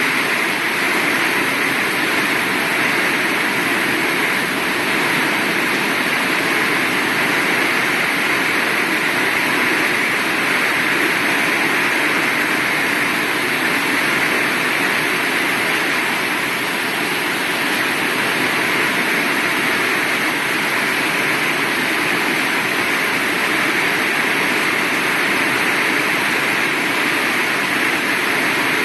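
Heavy rain falling steadily, a dense even hiss with no thunder or other distinct sounds.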